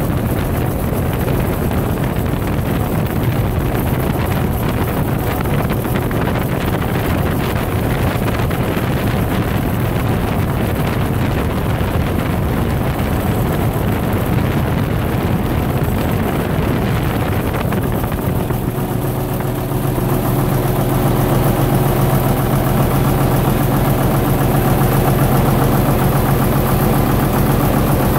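Gardner LW diesel engine driving a generator, running steadily. About two-thirds of the way through, its sound settles into a steadier, slightly louder hum with a clear low tone.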